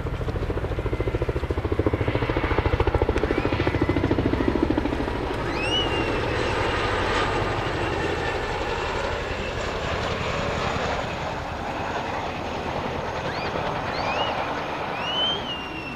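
Boeing CH-47J Chinook tandem-rotor helicopter flying a display pass: fast, even rotor thumping, loudest over the first five seconds, then easing to a steadier rotor and twin-turbine sound. A few short, high, rising chirps sound over it about a third of the way in and near the end.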